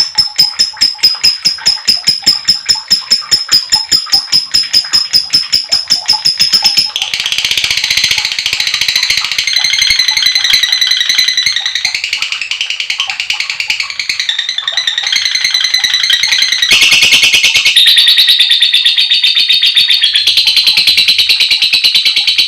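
Lovebirds chattering in the long 'ngekek' call: first a rapid run of sharp, high chirps, about four or five a second, then after about seven seconds a dense, continuous, high-pitched chatter that grows louder later on.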